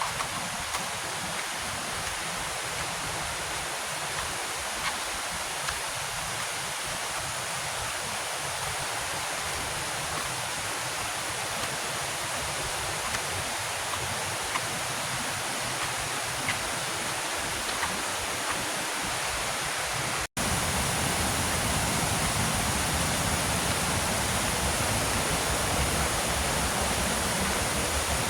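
Steady rush of a waterfall, with a few faint clicks. About two-thirds of the way through the sound cuts out for an instant and comes back louder and fuller.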